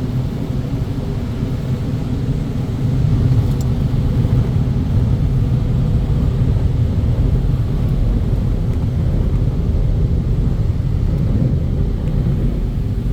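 Automatic car wash's drying blowers blasting air over the car: a loud, steady rumble that grows louder about three seconds in, as the dryer stage runs.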